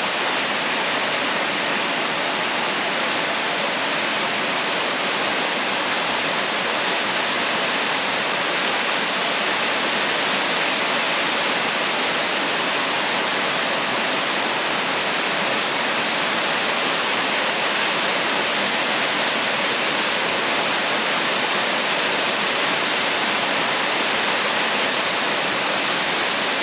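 A 60-foot waterfall pouring: a steady, even rush of falling water, with most of its sound in the hiss and little low rumble.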